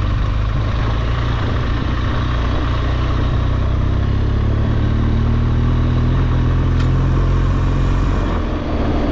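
BMW R1200GSA adventure motorcycle's boxer-twin engine running steadily as the bike rides along. Its pitch lifts slightly midway and eases briefly near the end.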